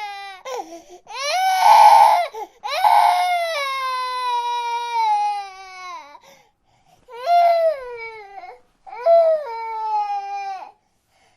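A baby crying: four high-pitched wails, each sliding down in pitch, the second one long, with short pauses between.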